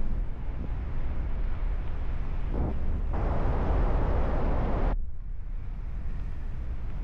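Wind buffeting the microphone in flight, a steady low rumble with a rushing hiss. About three seconds in a louder, brighter rush comes in and cuts off suddenly about two seconds later.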